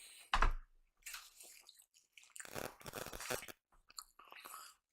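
A person chewing food close to the microphone, with wet mouth smacks and irregular crunchy clicks. The loudest smack is about half a second in, and there is a busier run of chewing noise around the middle.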